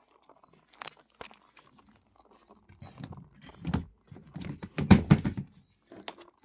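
A run of taps, clicks and knocks with rustling, loudest between about three and five seconds in, typical of small birds moving about and handling around a bird cage. Two short, faint high peeps come early on and in the middle.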